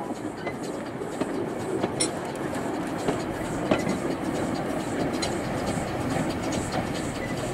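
Narrow-gauge train of open four-wheeled carriages rolling past, wheels clicking now and then over the rail joints, with a steady running noise.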